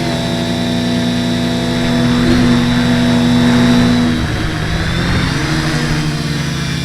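H-frame quadcopter's motors and propellers giving a loud, steady pitched buzz. About four seconds in the pitch shifts, then it settles at a new pitch. This is the unexplained propeller buzz in question.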